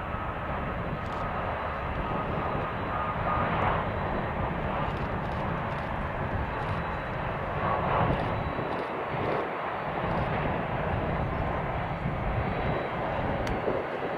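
Jet airliner engines running, a steady rushing noise with a faint high whine that fades out in the first few seconds.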